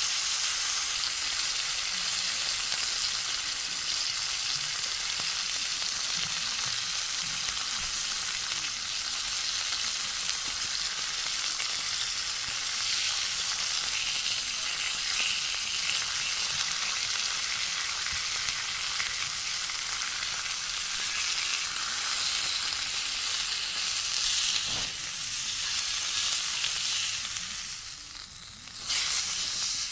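Food frying in a hot pan, a steady sizzle that drops away briefly near the end and then resumes.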